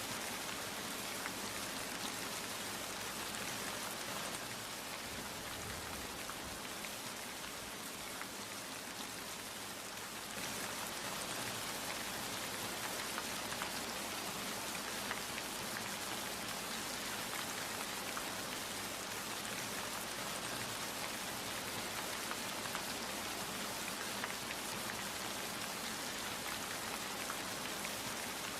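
Steady rain falling: a dense, even hiss with the ticks of individual drops. It eases slightly about five seconds in and comes back fuller suddenly about ten seconds in.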